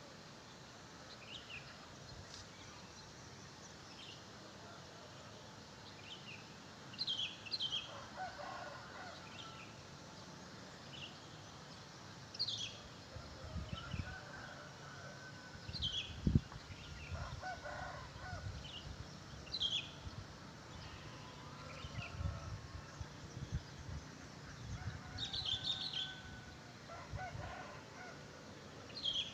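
Wild birds singing short, sharp, falling chirps over and over, and a rooster crowing about three times. Low rumbling on the microphone through the middle.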